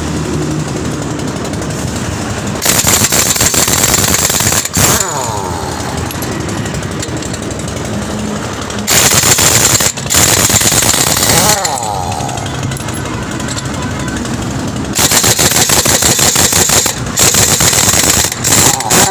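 Pneumatic impact wrench hammering on truck wheel nuts to loosen them, in three bursts of a few seconds, each ending in a falling whine as the tool spins down. A steady engine sound runs underneath between the bursts.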